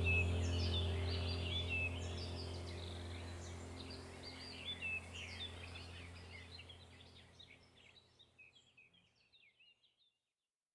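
Birds chirping over a steady low hum, the whole sound fading gradually to silence over about eight seconds.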